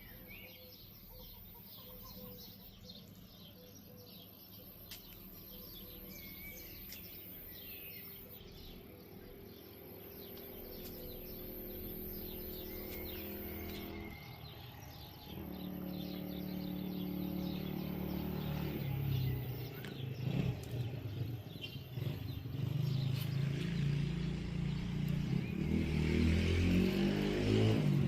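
Birds chirping faintly. In the second half a low, multi-toned drone grows steadily louder.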